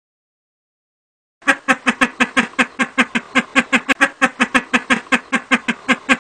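An animal calling in a fast run of short, evenly spaced calls, about six a second, starting suddenly after silence about a second and a half in.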